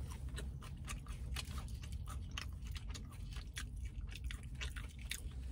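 Close-up chewing of a fried mozzarella stick: a run of irregular small clicks rather than a loud crunch, because the breading is not crunchy.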